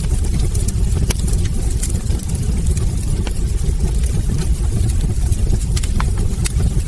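Wood fire burning in a fireplace: a steady low roar of flames with sharp crackles and pops from the burning logs scattered throughout.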